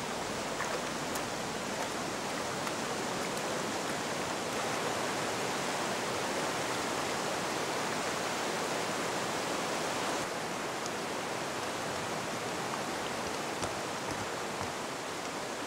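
Shallow mountain river rushing over stones: a steady, even rush of water that grows slightly duller from about ten seconds in.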